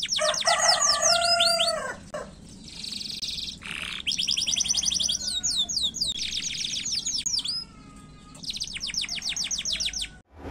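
Domestic canary singing vigorously: fast trills of rapidly repeated, downward-sweeping high notes, delivered in phrases of a second or two with short breaks between them.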